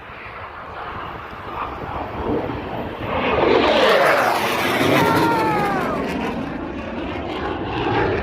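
Fighter jet passing low overhead: its engine noise builds to a peak about three to four seconds in, the pitch slides down as it goes past, and the noise then eases off.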